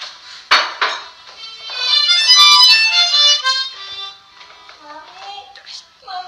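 A single musical instrument, reedy like a harmonica, sounds a loud chord of several held tones for about two seconds, within a crackly old-sounding recording. A sharp click comes just before it, and faint scattered noises follow.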